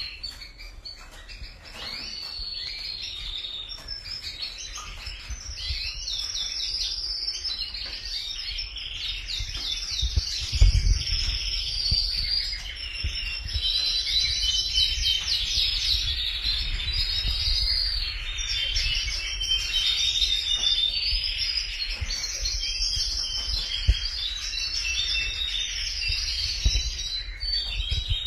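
Domestic canaries singing continuously in long, rapid trills and warbling phrases. A few low thumps break in, the loudest about ten seconds in.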